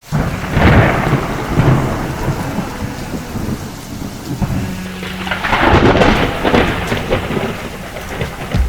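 Thunder rumbling over steady rain, with two long rolls: one in the first couple of seconds and one a little past the middle.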